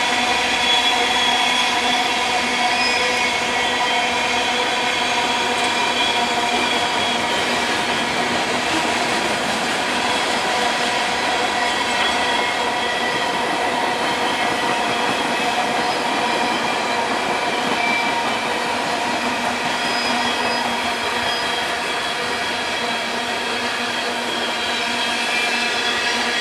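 Freight train's covered hoppers and tank cars rolling steadily past at close range, the wheels on the rails giving a steady squeal.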